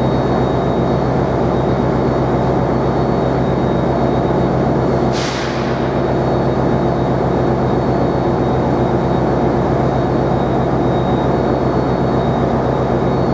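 Train running at steady speed: a continuous loud rumble with a steady hum and a faint high whine. A short falling hiss comes about five seconds in.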